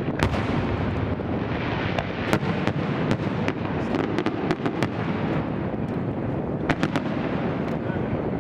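Aerial fireworks display: a steady din of bursting shells with many sharp bangs and cracks going off in quick succession throughout.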